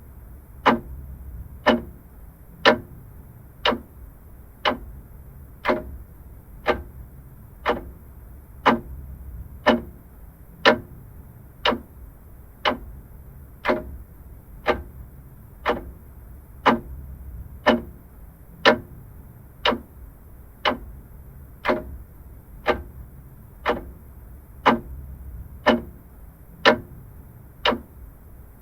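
Vintage mechanical clock ticking: a steady tick-tock of sharp clicks, about one a second.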